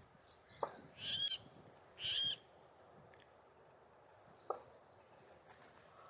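A bird giving two short, arching calls about a second apart, with a sharp tick just before the first call and another near the end.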